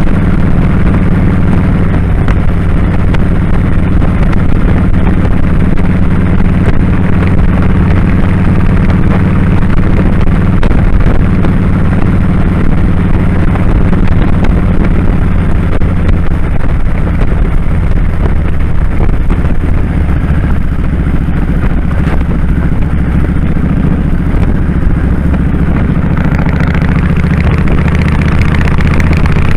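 Kawasaki Drifter 1500's V-twin engine running steadily on the road.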